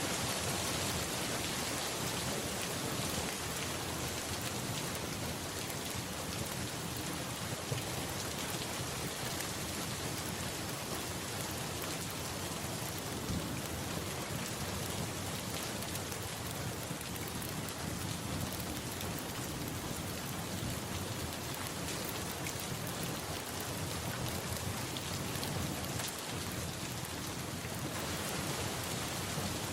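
Steady, even rainfall with a low rumble of thunder underneath. One sharp tick stands out about eight seconds in.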